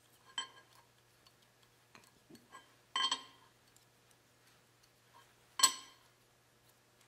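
Sharp, ringing metal-on-metal clinks, three clear ones about two and a half seconds apart, the middle one loudest, with fainter taps between. They come from a steel straightedge and feeler gauge being set and moved on a 7.3 Powerstroke diesel cylinder head while its deck is checked for flatness.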